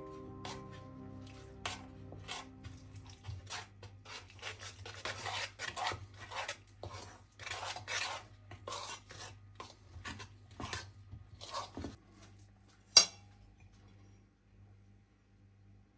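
Repeated scraping and rubbing strokes of a kitchen utensil against cookware, irregular and a fraction of a second each, ending with one sharp clink about thirteen seconds in. Background music fades out in the first few seconds.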